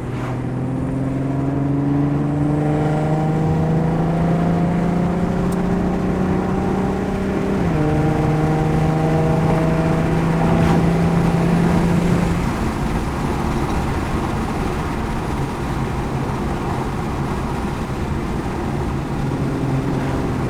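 Car engine pulling under acceleration, its pitch rising slowly, dropping suddenly on an upshift about 8 seconds in, rising again, then settling to a steady cruise.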